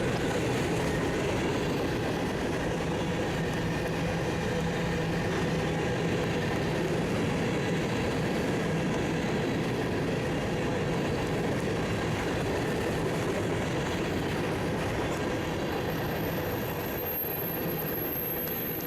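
Freight train cars rolling steadily past, a continuous noise of steel wheels on rail.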